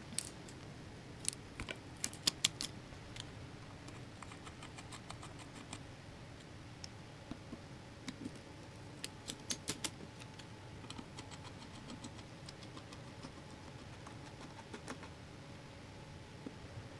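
Small metal parts and hand tools clinking and clicking as they are handled, in scattered sharp clicks, some coming in quick runs of several, over a low steady background hum.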